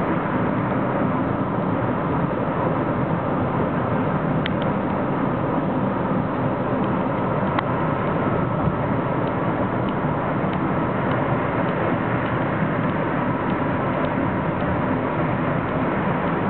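Metro-North M3 electric multiple-unit train running at speed, heard from inside the head car: a steady rumble of wheels on rail with a few faint clicks.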